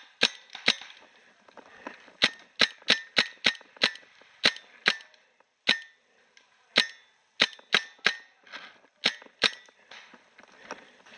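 Paintball marker firing, about eighteen sharp pops in quick irregular runs of two to five shots with short gaps between.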